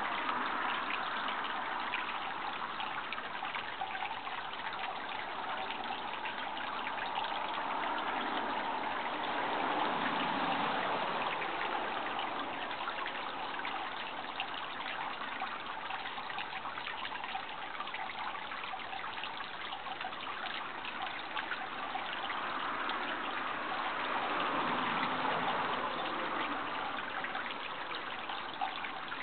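Running water trickling and splashing steadily, swelling and easing slowly every several seconds.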